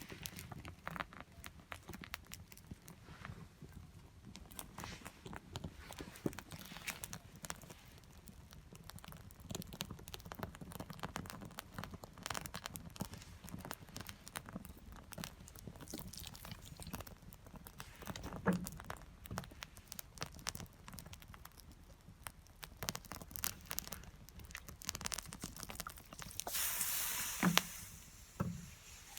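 Small wood fire crackling, with irregular sharp pops throughout and a louder burst of noise lasting a second or two near the end.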